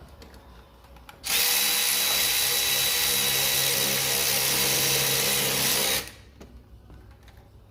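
A power tool runs at a steady speed for almost five seconds, starting a little over a second in and cutting off abruptly.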